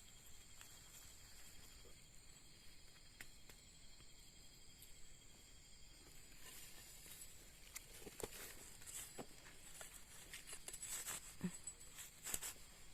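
Faint crackling and rustling of footsteps and handling in dry forest leaf litter, scattered at first and denser and louder in the last few seconds, over a steady high insect drone.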